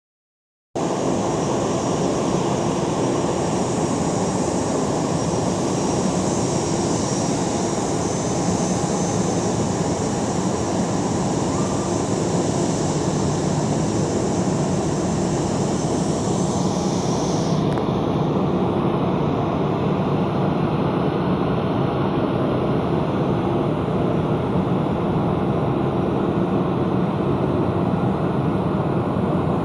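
Aircraft jet engines running steadily at low power as the plane is taxied in to park. The higher part of the sound cuts away suddenly a little past halfway, leaving a duller steady rumble.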